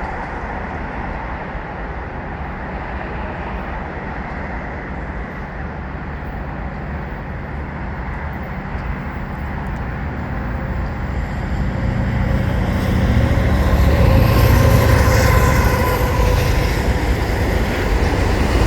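CN auto rack freight train rolling past: a steady rumble of wheels on rail that grows louder about twelve seconds in, with a thin wheel squeal over it.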